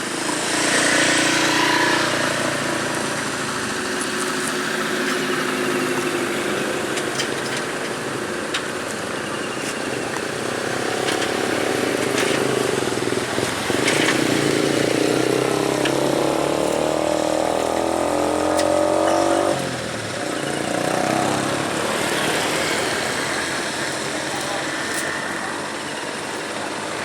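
A vehicle engine running, rising in revs from about halfway through and dropping off abruptly a few seconds later, with faint voices underneath.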